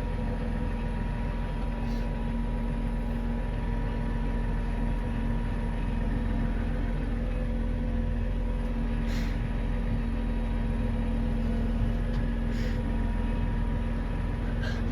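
Tractor engine running steadily, with a few brief clicks over it.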